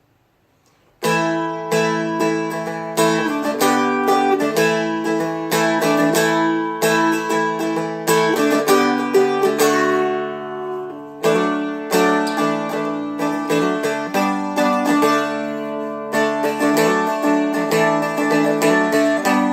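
Seagull Merlin M4, a four-string dulcimer-style instrument, strummed with a flatpick through the chord changes of the song's bridge. The playing starts about a second in and carries on in steady strums, easing off briefly just past halfway.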